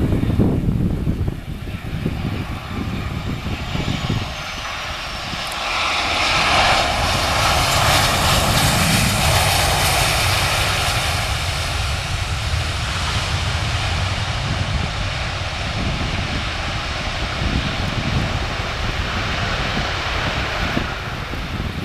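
Boeing 737 jet passing on its landing approach: the whine and rush of its turbofan engines swell about five seconds in, are loudest shortly after, then fade slowly. Wind buffets the microphone throughout.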